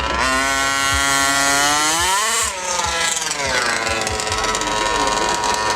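A car engine under throttle. Its pitch climbs for about two seconds, drops sharply, then runs on lower and eases down.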